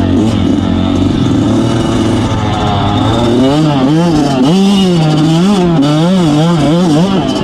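Motorcycle engine running under a rider's throttle, its pitch rising and falling over and over, about twice a second in the second half.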